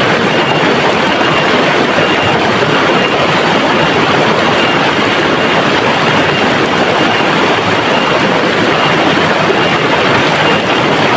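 River water flowing and rushing steadily, a loud, even, unbroken wash of noise.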